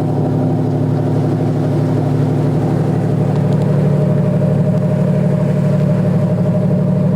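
Boat engine running steadily with a low, even hum, a little louder from about four seconds in.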